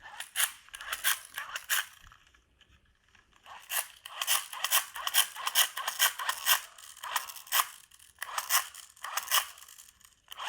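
Rapid scraping and rattling of hard plastic as a small toy flashlight is handled and fiddled with, in a short flurry, a pause, then a longer run of quick strokes.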